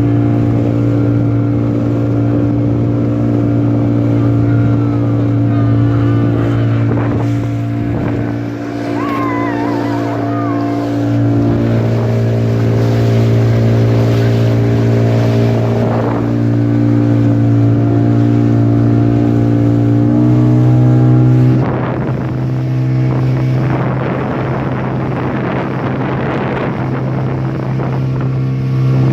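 Motorboat engine running at a steady pitch while towing. It picks up briefly about twenty seconds in, then wind and water noise rises over it.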